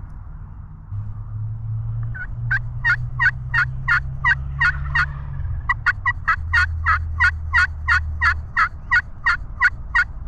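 Wild turkey yelping: a run of about nine short, evenly spaced notes, a brief pause, then a longer run of about fifteen, roughly three notes a second. A low steady hum sits underneath.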